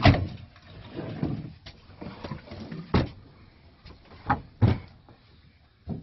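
A series of irregular knocks and thuds from hard objects and panels being handled during work in a sailboat's engine compartment, the loudest at the start, about three seconds in and near five seconds.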